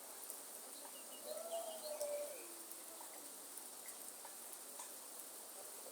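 Faint rainforest ambience: a steady high hiss, with a bird calling about a second in. The call is a long whistled note that rises slightly and then falls, followed by a lower note, with a few short high chirps around it.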